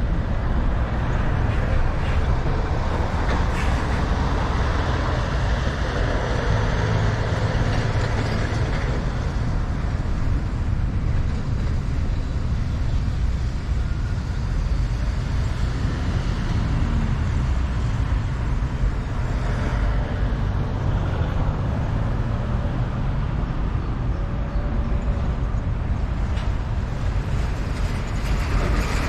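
Steady rumble of wind buffeting the microphone and road noise while riding a bicycle.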